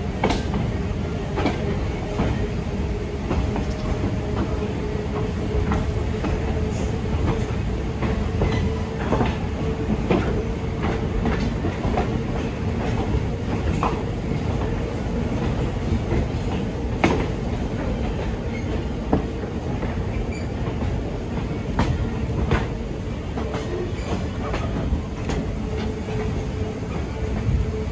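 Moving train heard from an open-air car: a continuous rumble of steel wheels on the track with irregular clicks and knocks over the rail joints, and a steady droning tone beneath.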